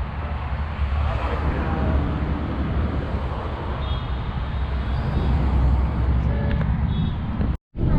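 Vehicle running with a steady low rumble of engine and road noise, cutting out for a split second near the end.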